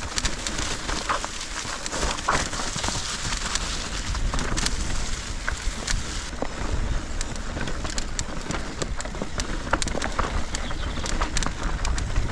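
Mountain bike riding down a rough trail: tyres crunching over stones, with frequent clicks, knocks and rattles from the bike. A steady low rumble of wind sits on the microphone.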